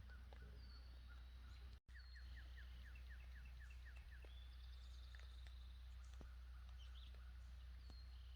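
Faint birdsong in woodland. Short whistled calls sound over a steady low hum, and about two seconds in one bird gives a quick run of about ten short descending notes.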